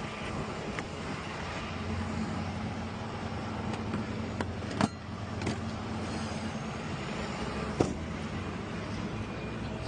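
A vehicle engine idling steadily, with two sharp knocks, one about five seconds in and one near eight seconds.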